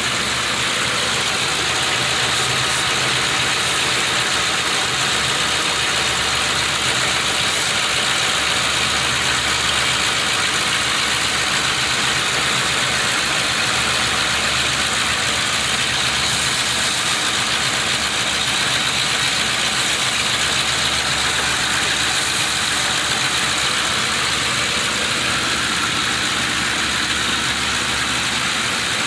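2011 Ford Crown Victoria's 4.6-litre V8 idling steadily on a warm restart, heard with the hood open, while its warm-start idle problem is being diagnosed.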